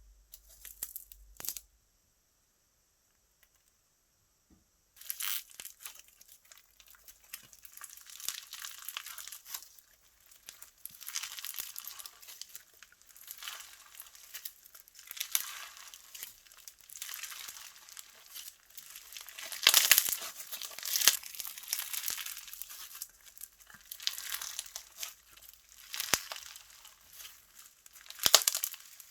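Slime being squished, stretched and folded by hand, making dense crackling, crinkling and popping sounds as air pockets burst. It starts after a few seconds of silence and gets louder in spells, the strongest about two-thirds of the way through and near the end.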